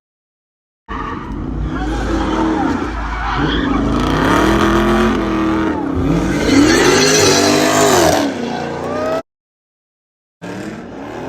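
Car engines revving hard, pitch climbing and falling again and again, with tyre squeal mixed in. The sound cuts to dead silence twice.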